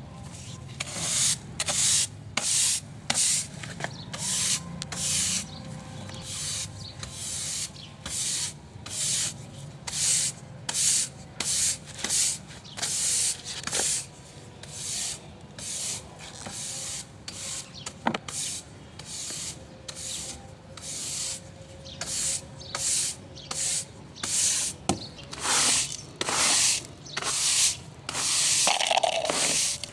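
Rhythmic rubbing strokes of cleaning across a surface, each a short swish, a little over one a second, with a few light clicks in between.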